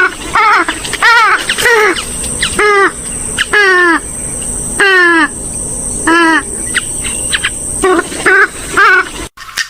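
Loud, nasal calls of a rail-family waterbird of the swamphen and moorhen kind: about a dozen short, down-arching notes, some in quick pairs, with pauses about four and seven seconds in. The recording cuts off abruptly near the end.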